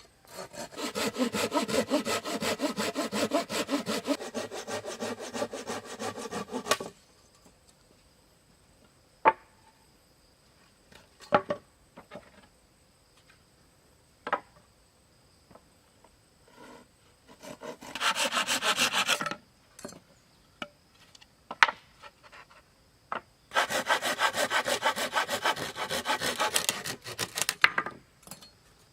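Hand saw cutting through wood in fast back-and-forth strokes, in three bouts: a long one of about six seconds, a short one of about two seconds past the middle, and one of about four seconds near the end. A few single sharp knocks of wood come in the pauses between bouts.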